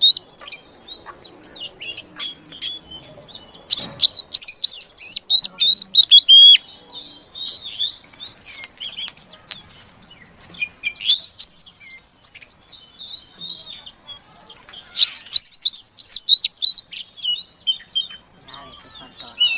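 Female Oriental magpie-robin (kacer) calling: rapid, dense runs of high chirps and twitters, with loud flurries about four seconds in, near eleven seconds and around fifteen seconds. This is the call keepers play as a lure to bring a male kacer into full song.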